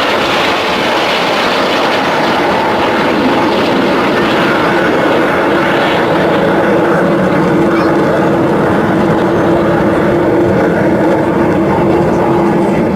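BAE Hawk T1 jet trainers flying past in a display: a loud, steady jet rush with a faint held hum underneath.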